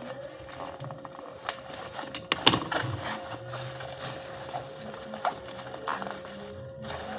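Clicks and knocks of a laptop and its packaging being handled, the loudest a sharp knock about two and a half seconds in, over a faint steady hum.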